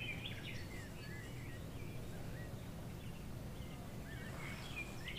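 Faint bird chirps, short rising-and-falling calls scattered throughout, over a low steady hum.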